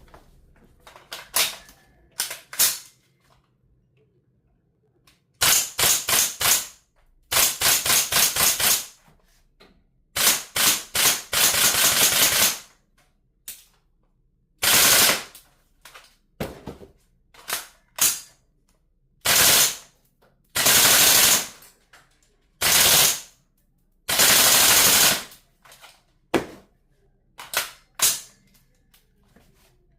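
GBLS DAS gel blaster firing: a few single shots, then repeated full-auto bursts of rapid, evenly spaced shots, some lasting about two seconds, with scattered single shots near the end.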